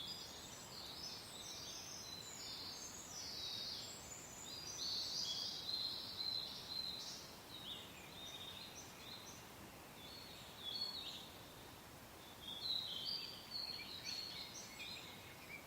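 Several songbirds chirping and singing over a soft, steady wind. The calls thin out for a few seconds around the middle, then pick up again near the end.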